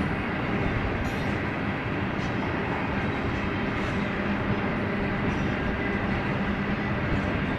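Double-stack intermodal train's container well cars rolling past: a steady noise of steel wheels on the rails, with faint clicks now and then.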